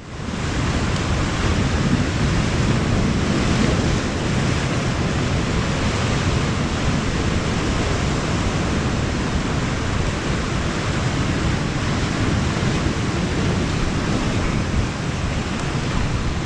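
Steady wind buffeting the microphone over the wash of sea surf on a rocky shore.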